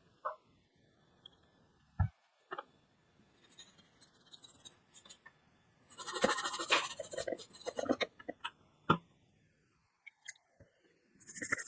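Scattered small clicks and two bursts of close scratching, from hand work on a car key fob's circuit board.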